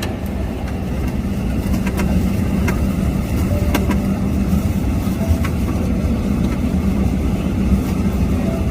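Steady low rumble of a Boeing 777 taxiing, heard inside the cabin: engine and rolling noise that grows a little louder about two seconds in, with a few faint clicks.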